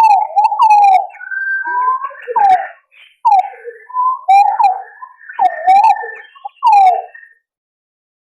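Green pigeons (punai) calling: a run of wavering whistled notes that bend up and down, with a few sharp clicks among them, stopping about seven seconds in.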